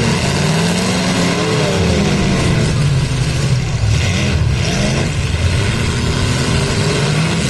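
Several demolition derby cars' engines revving, their pitch rising and falling as they accelerate and back off, with a short noisy burst about four seconds in.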